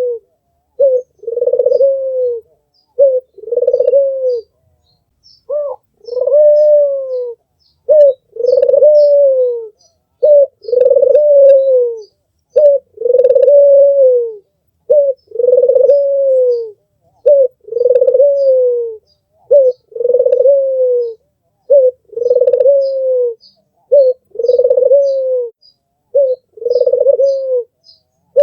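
Albino puter (Barbary dove) cooing over and over, each call a short note followed by a longer coo that rises slightly and then falls, about every two seconds. Faint high chirps from small birds sound in the background.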